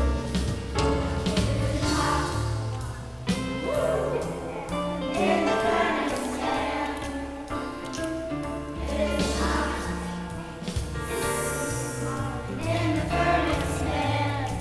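Choir singing a song with band accompaniment: steady bass notes under the voices and regular drum hits.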